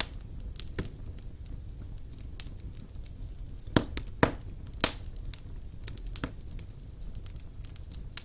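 Wood fire burning in a fireplace: a steady low rumble with scattered crackles and three louder pops in quick succession near the middle.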